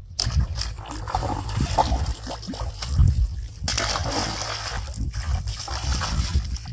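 Irregular water splashing, in two long spells broken by a brief pause about halfway through.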